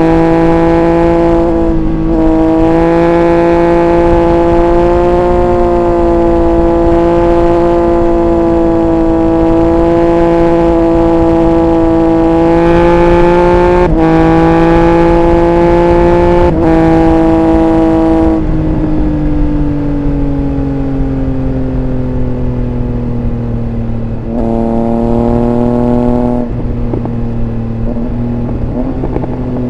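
Triumph Speed Triple 1200 RR's inline three-cylinder engine heard from onboard, pulling at steady revs with a few brief breaks in its note. About 18 seconds in the throttle is rolled off and the note falls slowly, with one short burst of throttle near the end.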